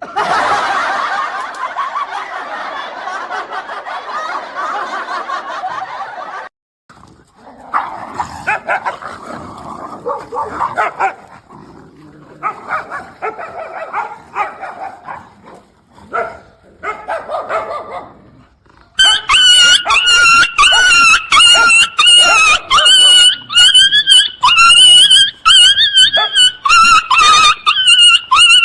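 Dogs barking and yipping in several short clips. From about two-thirds of the way in there is a loud run of high-pitched, wavering yelps, about two a second.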